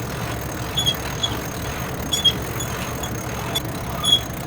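Sailing yacht's inboard engine running steadily under way, with a few short high squeaks and faint clicks over it.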